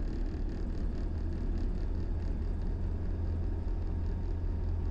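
Diamond DA20 Katana's piston engine idling steadily on the ground before taxi, a steady low drone.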